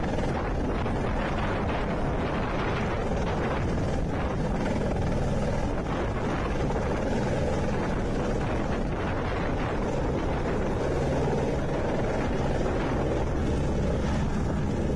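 Helicopter running, a steady rotor and engine noise that holds at an even level.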